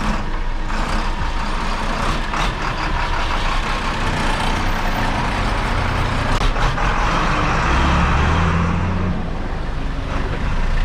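Motor vehicle running, with a steady low engine hum shifting in pitch under continuous road noise and a few brief knocks.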